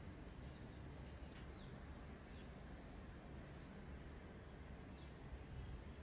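Small birds chirping: several short, thin, high-pitched chirps and a few quick downward-sliding notes, one chirp held a little longer about three seconds in, over a faint steady low background rumble.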